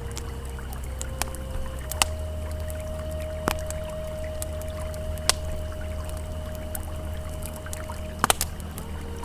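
Campfire crackling, with a few sharp pops that stand out, over the steady low rush of a flowing river. Soft, long-held ambient tones sit underneath and shift pitch now and then.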